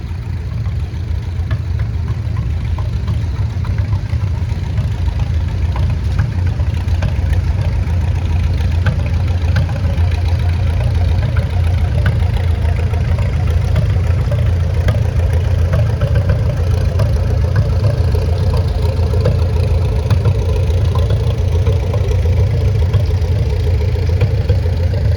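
Antique farm tractor engine running steadily at low speed, getting gradually louder over the first several seconds.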